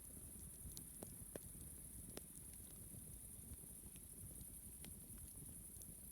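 Faint campfire crackling: a few scattered sharp pops and ticks over a low steady hiss.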